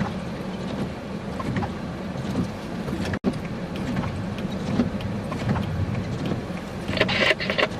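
Steady road and engine rumble inside a moving car, with wind noise, and a brief dropout in the sound about three seconds in.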